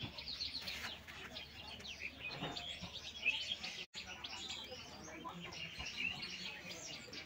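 Small birds chirping and twittering, many short overlapping calls, with a brief break in the sound about four seconds in.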